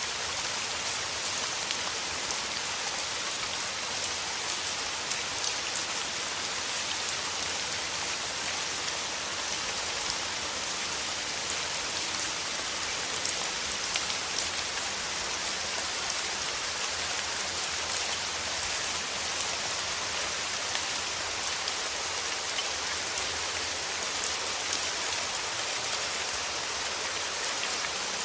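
Steady rain falling on leaves and ground, an even hiss with many small drop patters.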